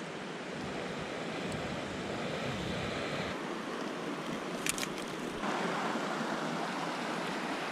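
Brook water rushing steadily over rocks, with a couple of sharp clicks about halfway through.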